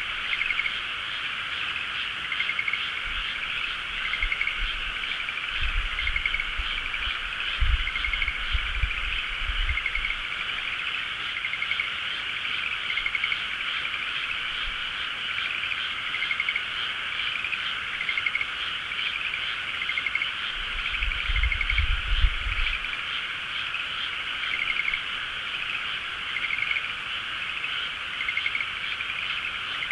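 A dense frog chorus: many frogs calling steadily at once, with individual pulsed croaks repeating about once a second over the chorus. A low rumble rises under it twice, about six seconds in and again past twenty seconds.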